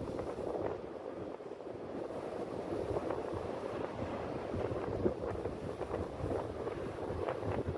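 Sea waves washing on the shore, with wind buffeting the microphone in low rumbling gusts.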